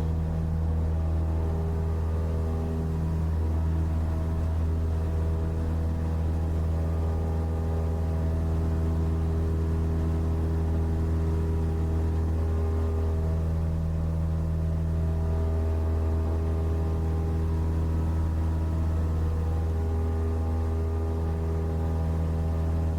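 Cessna 172's piston engine and propeller droning steadily at a constant pitch, typical of a takeoff climb.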